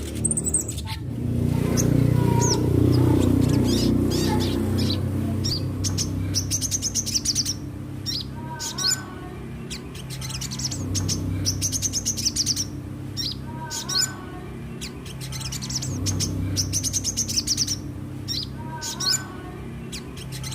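A crimson sunbird singing: high, quick twittering chirps broken by a rapid high trill that comes back about every five seconds. A low steady hum runs underneath.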